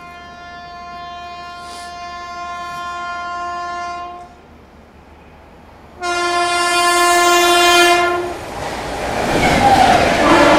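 An Indian Railways express locomotive sounds its horn as it approaches: a long blast of about four seconds that grows louder, a pause of about two seconds, then a shorter, louder second blast. From about eight and a half seconds in, the train rushes past at speed with loud wheel clatter.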